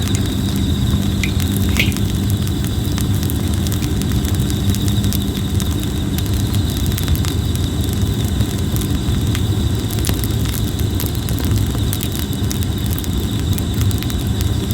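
Red-flowering plum wood burning in a campfire, giving frequent small crackles and pops over a steady low rumble, with insects trilling steadily underneath.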